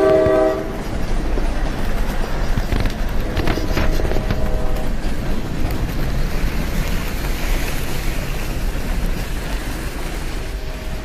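A diesel locomotive's multi-tone horn ends about half a second in, and a fainter horn blast sounds around three to five seconds in, over a steady rumble of a train running on track.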